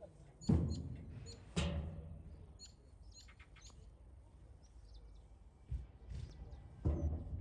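Birds chirping and calling, with many short high chirps and a few louder, harsher calls about half a second and a second and a half in, and again near the end. A low rumble runs underneath.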